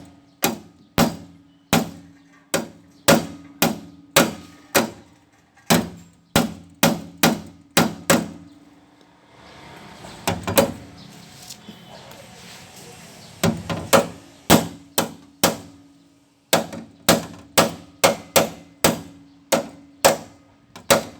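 Hammer blows beating out the sheet-metal side panel of a Mitsubishi L300 van, about two sharp strikes a second, with a pause of several seconds in the middle before the hammering resumes.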